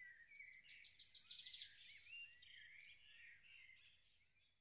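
Faint birdsong: several birds chirping and trilling in quick, overlapping phrases, fading out near the end.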